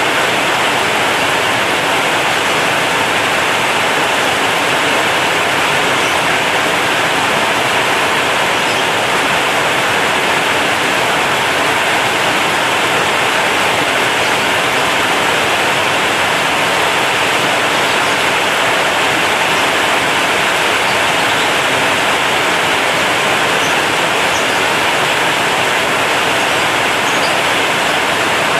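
Heavy rain drumming steadily on a corrugated zinc sheet roof, a dense, unbroken hiss of drops on metal.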